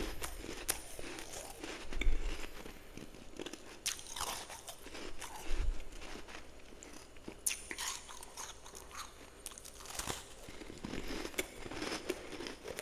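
Close-up chewing and crunching of powdery freezer frost in the mouth: irregular crisp crackles, with a few heavier bites.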